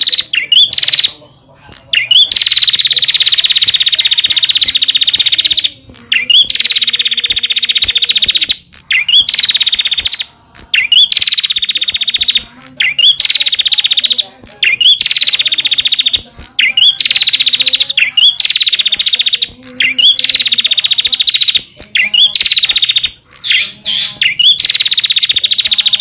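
Prenjak (prinia) song, the kind played as a lure call for wild prinias. Repeated bouts of a fast, dry trill, each opening with a short rising note, about ten bouts with brief pauses between them.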